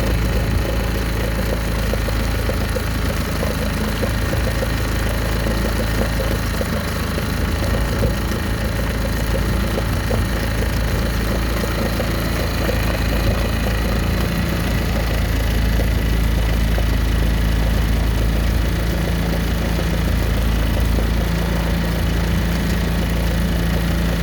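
Honda WE-18 outboard motor running steadily at idle, its note rising slightly about halfway through.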